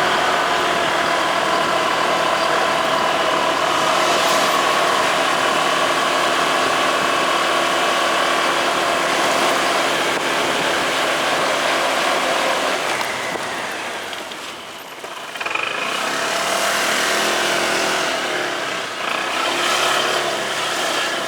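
Motorcycle engine running while riding, a steady drone that drops off briefly about fourteen seconds in, then picks up again.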